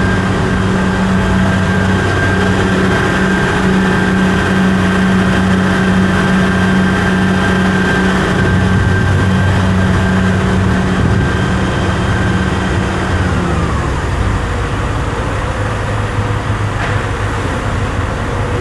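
A motor vehicle's engine running at a steady speed, its pitch falling about 13 seconds in as it slows.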